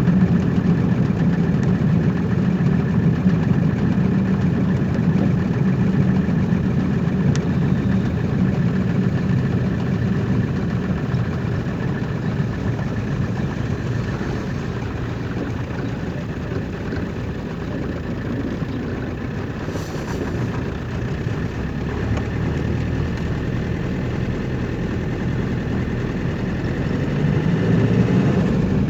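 A vehicle's engine running steadily, a continuous low hum that dips slightly midway and swells a little near the end.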